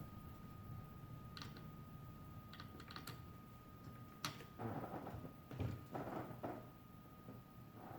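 Faint scattered clicks and short rattles of small parts and tools being handled, a few sharper clicks among them, over a faint steady high-pitched tone.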